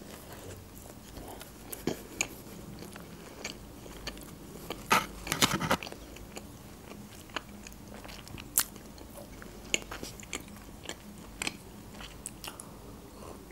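Close-miked eating: biting into and chewing a doner wrap in soft flatbread, with scattered small wet clicks and mouth sounds. A few louder clicks come about five seconds in, and there is a sip of water near the end.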